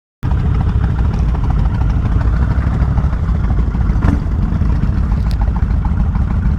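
Kawasaki Vulcan 1500 Classic V-twin motorcycle running steadily under way, heard through a helmet-mounted microphone with wind rumble. The sound cuts in abruptly just after the start.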